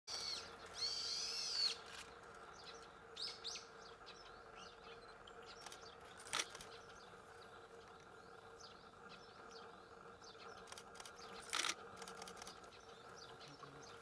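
Wild birds calling, with a short run of high, arching whistled notes at the start as the loudest part, then scattered faint high chirps. Two sharp clicks about six and eleven and a half seconds in, over a faint steady hum.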